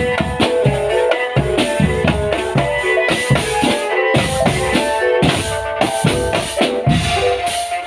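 Marching drum band playing: bass and snare drums beating a steady march rhythm under a melody carried on pitched wind or keyboard instruments.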